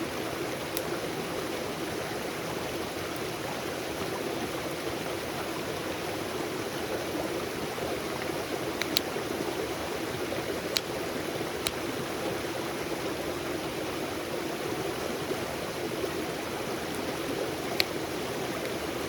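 Steady rush of running water, with a few sharp pops from a wood campfire, about five in all.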